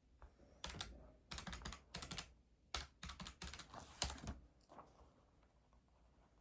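Rapid key tapping in quick runs of clicks, starting a little over half a second in and stopping after about four seconds.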